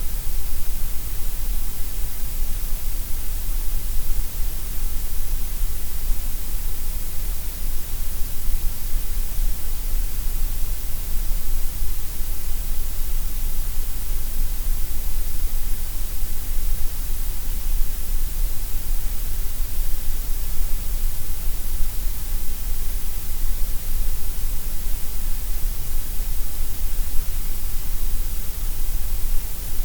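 Steady synthetic gray noise: an even, unchanging hiss across the whole range, with no events or changes.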